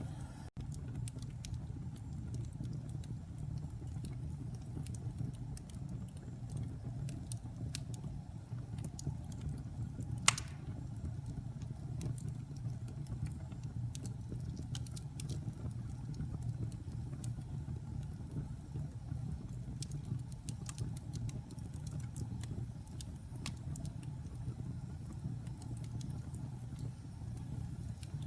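Wood fire burning in a fireplace: a steady low rumble with scattered small crackles, and one louder pop about ten seconds in.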